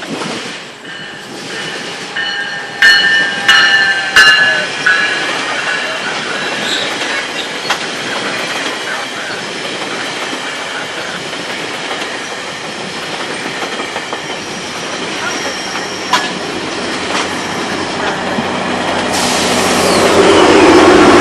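GO Transit commuter train passing at close range: a steady rumble of wheels on rail, with high wheel squeal in the first few seconds and a few sharp, loud clacks over the rail joints. The noise builds toward the end.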